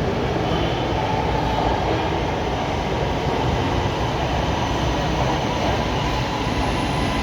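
Lahore Orange Line metro train running into the station, a steady rumble of wheels and traction motors with a faint steady whine.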